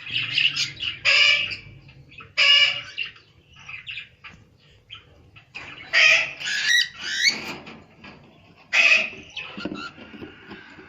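Caged parrots calling: a series of loud, harsh calls, each about a second long, with quieter chirps between.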